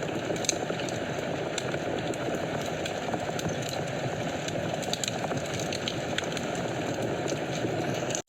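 Wood fire burning in a fireplace: a steady low flame noise with many small sharp crackles and pops, several a second. The sound cuts out abruptly right at the end.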